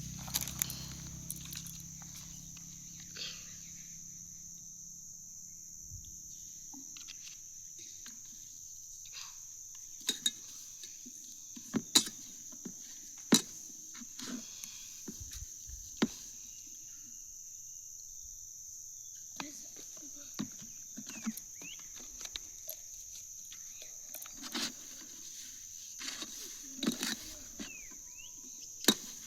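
Insects, crickets or cicadas, keeping up a steady high-pitched drone, with scattered short sharp clicks and taps now and then.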